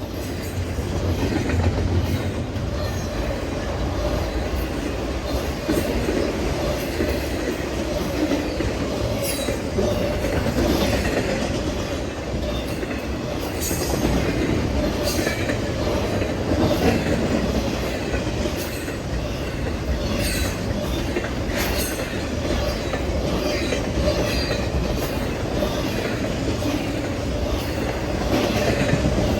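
Norfolk Southern freight train rolling past: a steady rumble of railcar wheels on the rails, with sharp clicks every second or two as the wheels cross rail joints.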